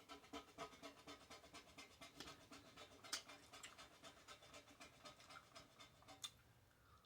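Faint, rapid rhythmic panting, about five to six pants a second, that stops about six seconds in.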